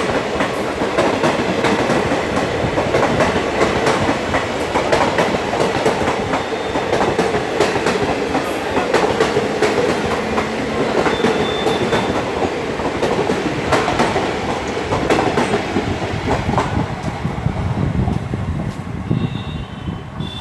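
Express passenger train rolling past at speed, its wheels clattering over the rail joints with a steady clickety-clack, fading away near the end.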